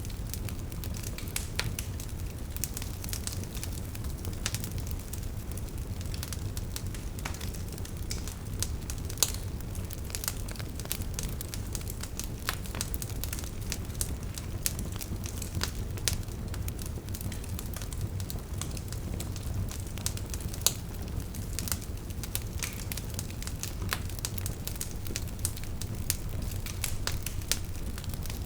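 Burning wood fire crackling, with irregular sharp pops and snaps over a steady low rumble.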